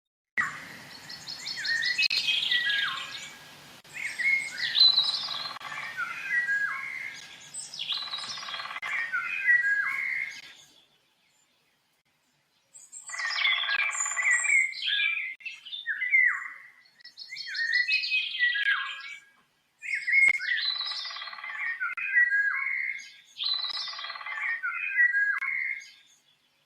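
A songbird singing in repeated phrases, each two to three seconds of quick chirping notes, with a short silent pause just before the midpoint.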